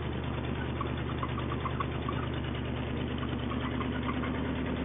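Truck engine running steadily, with a light rapid ticking over it in the first half.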